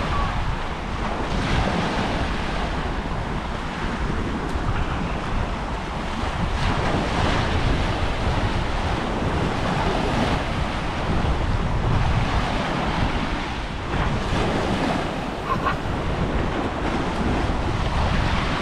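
Waves washing onto a beach, with wind buffeting the microphone.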